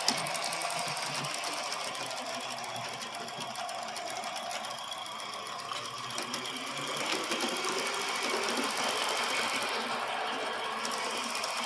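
Aster three-truck Climax live-steam model geared locomotive running, with a rapid, steady chuffing clatter from its engine and gear drive.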